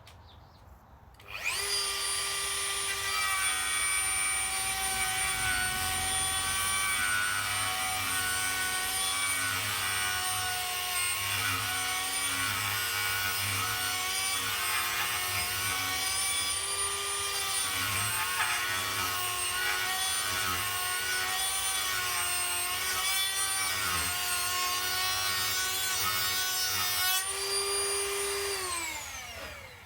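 Dremel rotary tool with a drum sander switching on about a second and a half in and running with a steady high whine, its pitch wavering as it sands the wooden mandolin neck at the truss-rod slot. Near the end it is switched off and winds down, its pitch falling.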